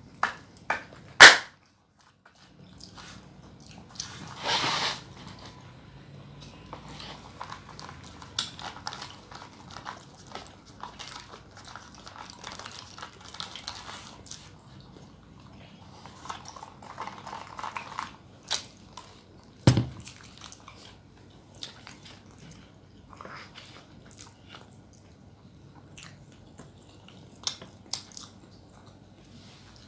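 Close-miked eating: chewing and biting with many small wet clicks and crunches. There is a sharp loud click about a second in and a knock about two-thirds of the way through.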